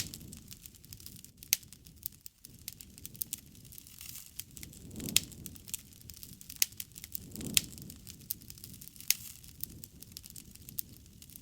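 Wood fire burning, crackling with sharp, irregular pops and snaps. A soft low rush of flame swells up three times.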